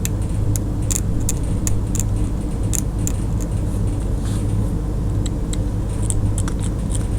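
Irregular light clicks and taps of a paint pen and small tool working on a die-cast metal toy truck, over a steady low hum.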